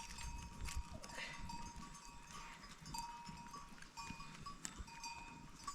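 Faint sounds of a flock of sheep and goats, with small bells clinking now and then.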